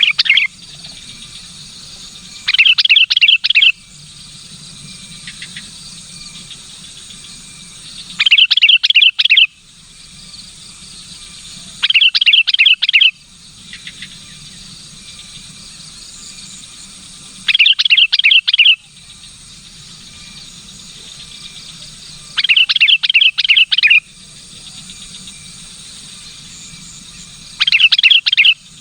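Sooty-headed bulbul (kutilang) calling: loud, quick runs of notes about a second long, repeated every four to six seconds.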